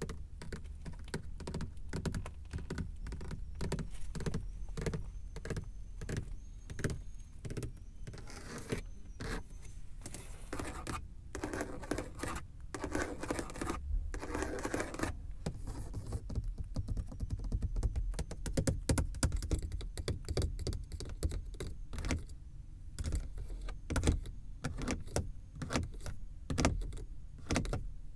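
Fingers and nails tapping and clicking on a car's surfaces in quick, irregular taps, with a few seconds of continuous scratchy noise near the middle.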